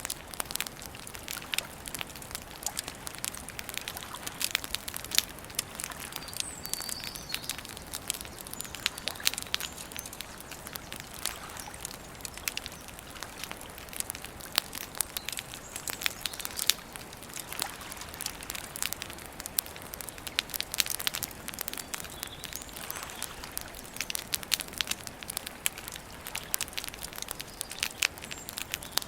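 Wood campfire crackling and popping: a dense, irregular stream of sharp snaps over a soft steady hiss.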